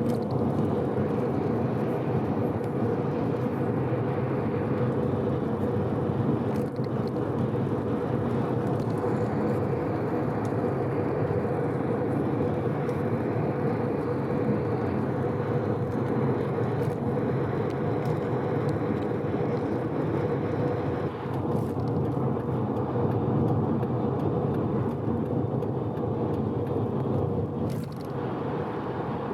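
Mazda FD3S RX-7's 13B twin-turbo rotary engine cruising steadily at expressway speed under light load, a constant drone mixed with road noise. The engine is freshly rebuilt and being run in gently.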